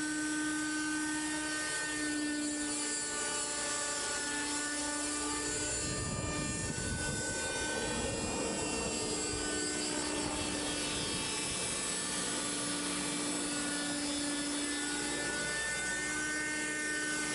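Radio-controlled Raptor 30 model helicopter in a Hughes MD 500 scale body flying, its small nitro glow engine whining at a steady, slightly wavering pitch. For several seconds in the middle a louder rush of rotor noise joins the engine.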